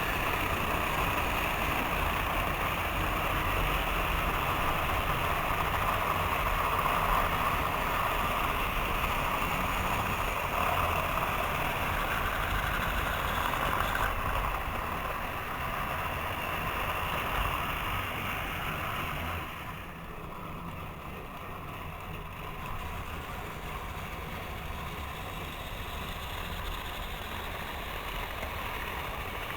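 Several model trains running on their tracks, a steady whirring and rumbling of motors and wheels on rail that grows quieter about two-thirds of the way through.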